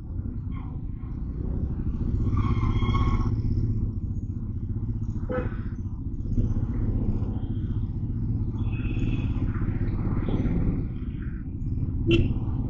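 Motorcycle engine running steadily in traffic, with a low rumble throughout. A short pitched tone sounds about two seconds in and again about nine seconds in.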